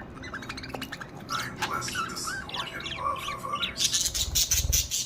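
Pet budgerigars chattering and squawking in short chirps and warbles. Near the end there is a loud burst of rapid, scratchy rattling.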